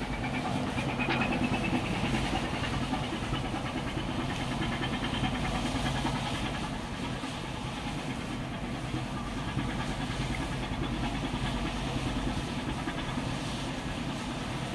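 A container ship's engines running during berthing: a steady low drone with a higher whine that rises in pitch over the first couple of seconds, over a haze of noise.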